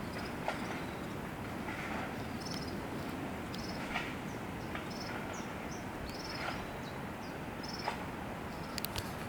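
Birds chirping: short high chirps repeated about every second, with a few sharper calls, over a steady low background rumble. A few quick clicks come near the end.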